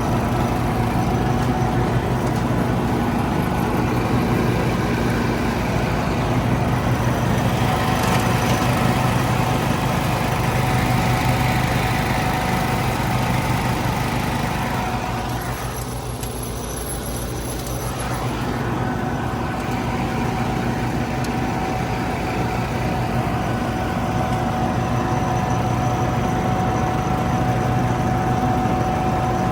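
Wheel Horse 312-8 garden tractor and Trac Vac leaf vacuum running steadily, an engine note with a steady whine over it. The sound dips briefly about halfway through, then comes back to full level.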